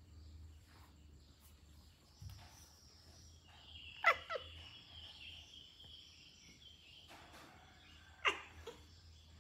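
A bird calling: quick downward-sweeping calls, two close together about four seconds in and one more about eight seconds in, over a faint steady high trill.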